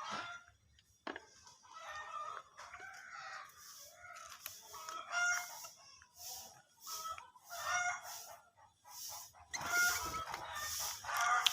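Birds calling in many short, repeated pitched notes, with quick hissing bursts between them that grow louder near the end.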